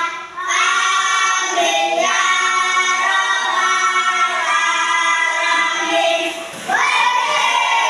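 A class of children singing together in unison, a sung group prayer, in long held notes with short pauses for breath about a third of a second in and again near the end.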